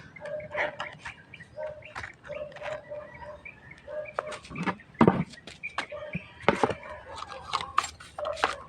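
Clicks and knocks of metal parts and tools being handled while fitting a motorcycle's primary ignition coil, the loudest about five and six and a half seconds in. Behind them a bird calls a short steady note over and over, about once a second.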